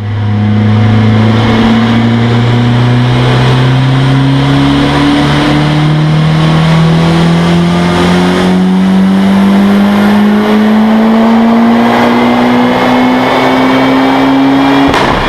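Turbocharged four-cylinder engine of a tuned Opel Kadett E (Astra Mk2) pulling hard at full throttle in a high gear, its pitch rising slowly and steadily. Just before the end there is a sharp crack as it comes off the throttle and the pitch starts to fall.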